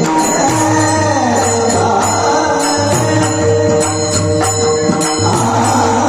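Marathi devotional song music: held melodic lines over a steady beat of short jingling strokes, like small hand cymbals or a tambourine.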